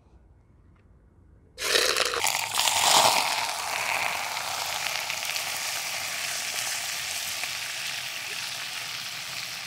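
Raw chicken pieces going into hot oil in a pot: a sudden loud sizzle starts about a second and a half in, then settles into a steady frying hiss as the chicken deep-fries.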